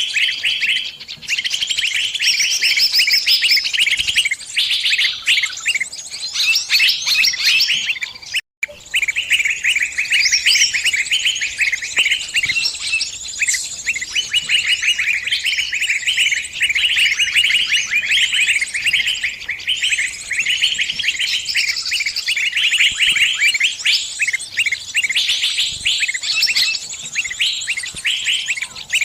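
Trapped bird's distress calls: fast, high-pitched chirping, dense and unbroken, with a split-second gap about eight seconds in.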